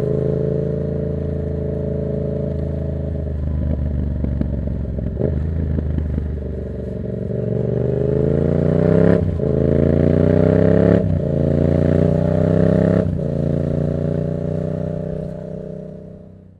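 Yamaha MT-07's parallel-twin engine through an open Black Widow exhaust with no dB killer. It runs steadily, then accelerates hard with three quick upshifts, each a short break and drop in pitch before it climbs again. It eases off and fades out near the end.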